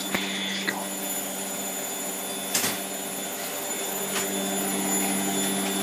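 Hotpoint Aquarius WMF720P washing machine spinning with a steady motor hum, with a few light knocks from the drum. The spin is held back by a suds lock from too much foam in the drum, so it is not yet at its 1200 rpm speed.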